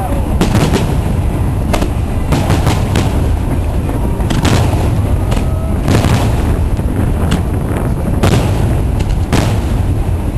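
Fireworks going off: a string of sharp bangs, roughly one every second, over a steady low rumble.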